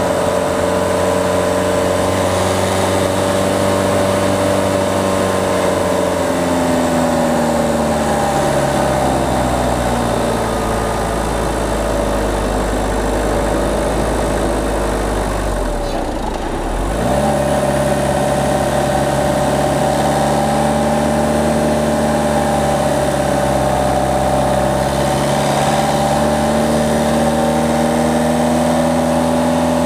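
Peugeot 208 diesel engine running under way: the revs fall gradually for several seconds, then about halfway through dip briefly and rise sharply as it is driven hard again, pulling steadily afterwards.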